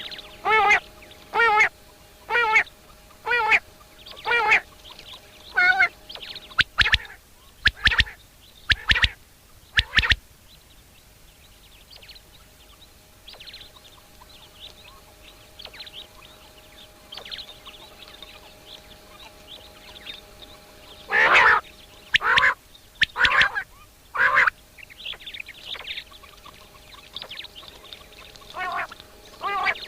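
A bird calling in runs of short, harsh notes, about one a second, with stretches of fainter chirping between the runs. Several sharp knocks come about a quarter to a third of the way in.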